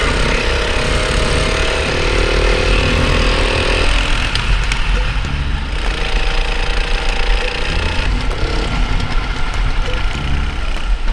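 Go-kart engine running continuously over a heavy low rumble; its tone shifts about four seconds in.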